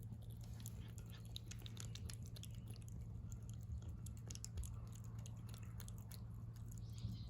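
A cat chewing food: many small, quick, irregular clicks of biting and crunching, over a steady low hum.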